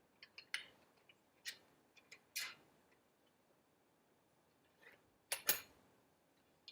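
A few faint, irregular clicks and short scrapes, like handling noise from work on the car. The loudest two come close together about five and a half seconds in.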